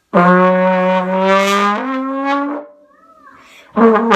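Trombone played: a long held low note that steps up a little and stops, then after a short pause another note starts near the end.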